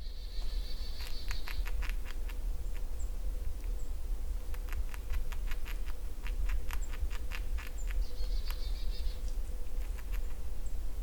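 Woodland songbirds chirping and singing: a warbling phrase near the start and another about eight seconds in, with many sharp, irregular chips between them, over a steady low rumble.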